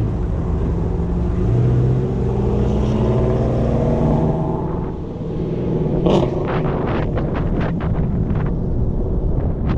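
Ford Shelby GT350's 5.2-litre flat-plane-crank V8, with catalytic converters deleted and running on E85, pulling away with its pitch rising. From about six seconds in, wind buffets the microphone as speed builds.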